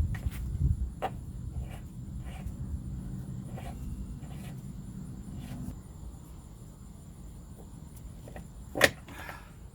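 Small metallic clicks and taps of parts being handled as the trim cylinder's end cap is fitted back on, with one sharp, loud click near the end followed by a brief scrape. A low steady hum underneath stops about six seconds in.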